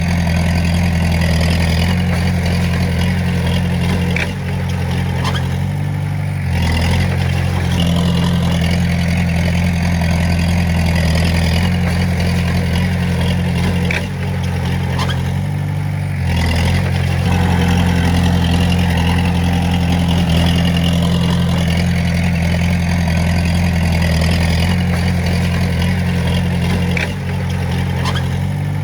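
Komatsu D20A bulldozer's diesel engine running steadily at working revs. It briefly eases off and picks up again three times.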